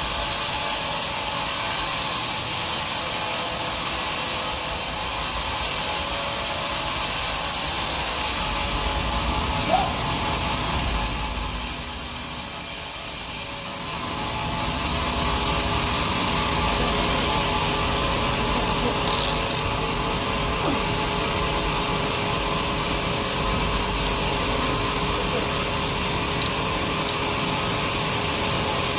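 Large sawmill bandsaw running steadily, its blade sawing through a big log. The sound changes about a third of the way in and drops briefly near the middle before settling back.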